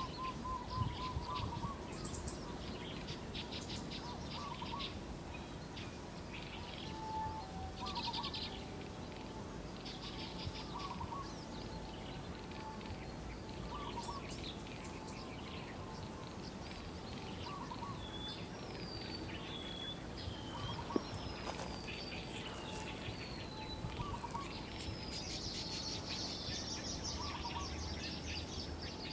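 Wild birds calling: a short low call repeated every three seconds or so, with bursts of high chirping, a few downward-sliding whistles midway, and a fast buzzy trill near the end.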